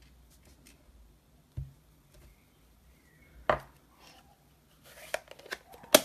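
Stamping with a clear-mount rubber stamp: the stamp knocks down onto an ink pad and paper on a desk. There are two separate knocks, then a quick run of light taps and clicks near the end.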